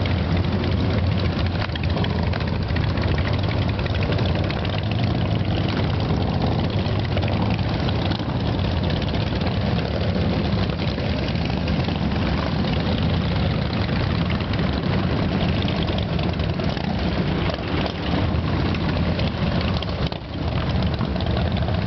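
Several motorcycle engines idling and running steadily as a group of bikes pulls out.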